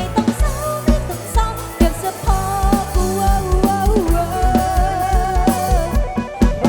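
Live Thai Isan pop band music from a rot hae sound-truck stage: a heavy, steady kick-drum beat under a long, wavering lead melody line, in a gap between sung lyrics.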